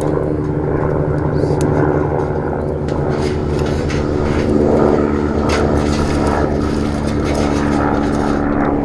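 An engine or motor running steadily: a low, even drone that comes in abruptly.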